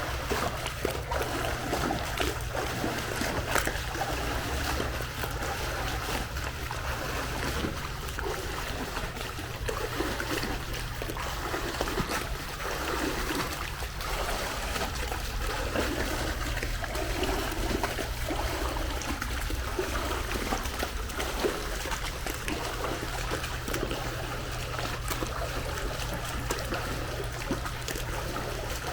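Pool water sloshing and splashing in repeated surges, every second or two, as a person does jump squats in it, over a steady low hum.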